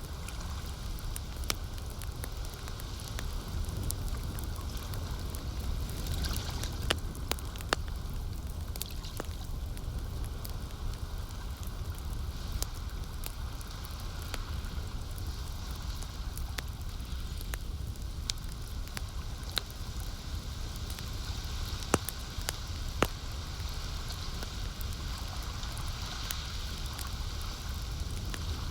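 Wood campfire crackling, with scattered sharp pops, the loudest a few seconds in and again past the middle, over a steady low wash of lake water.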